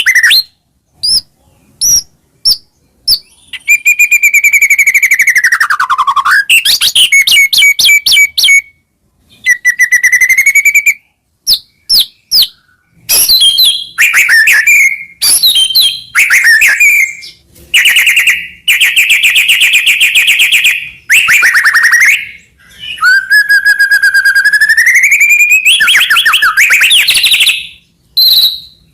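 White-rumped shama (murai batu) singing a long, varied song: clear whistles that glide down and back up, fast rattling trills and sharp clicks, broken by short pauses between phrases.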